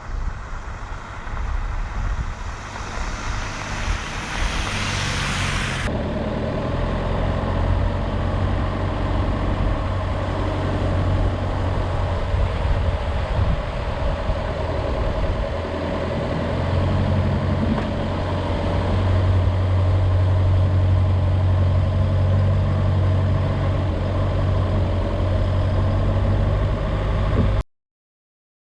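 A rushing noise swells for about six seconds and cuts off abruptly, giving way to a steady, low, engine-like motor hum.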